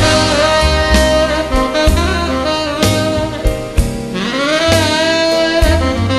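Jazz saxophone solo over a swing band with drum kit and bass; about four seconds in the sax slides up into a long held note.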